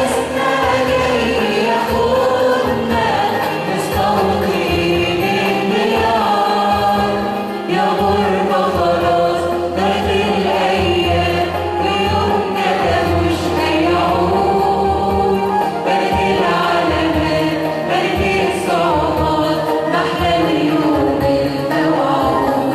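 Church choir singing an Arabic Christian hymn, many voices together over a steady low accompaniment.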